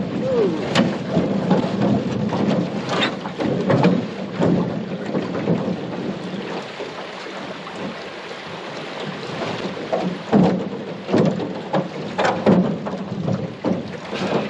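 Irregular knocks and scrapes of a 17-foot Alumicraft aluminum canoe being hauled over logs and plywood at a log jam, over a steady rushing noise.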